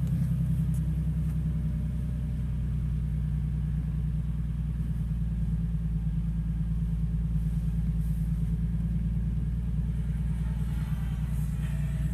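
2015 Ford Mustang's engine idling, a steady low rumble heard inside the cabin.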